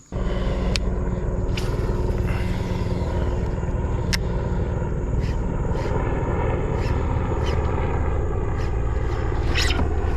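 A steady low motor drone that starts abruptly and holds an even pitch, with faint light clicks repeating from about halfway through.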